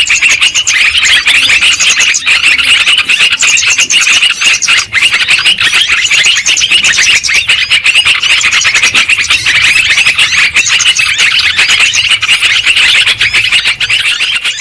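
Yellow-vented bulbuls (terucuk) chattering noisily: a loud, dense, continuous stream of rapid overlapping chirps.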